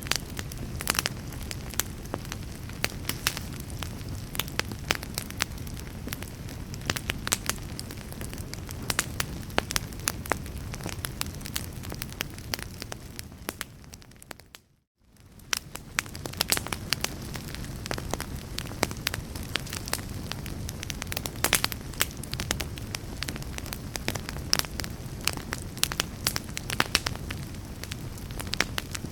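Wood fire crackling steadily: frequent sharp pops and snaps over a low, even rumble of flame. About halfway through, the sound fades briefly to near silence and then swells back.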